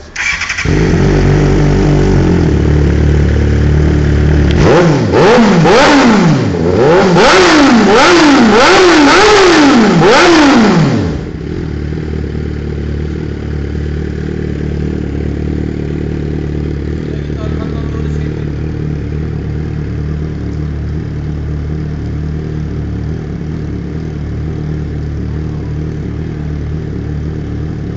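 Suzuki GSR 600's inline-four engine breathing through a handmade exhaust: it starts, holds a fast idle, is blipped about six times in quick succession with the pitch rising and falling each time, then settles into a steady idle.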